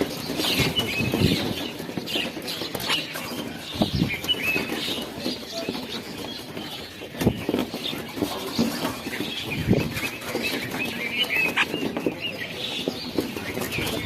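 A flock of birds calling, with many short chirps overlapping throughout, over an irregular low rustle and scattered thumps.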